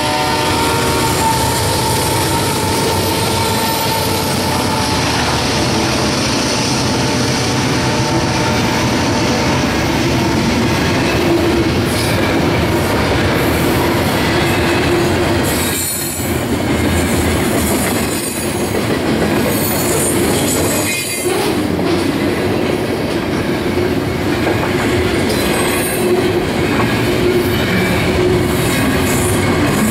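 A double-stack intermodal freight train passing close by: the last CSX GE diesel locomotives go by as a horn note dies away at the very start, then the well cars roll past with steady rumbling wheel and rail noise, clickety-clack over the joints and high squealing from the wheels.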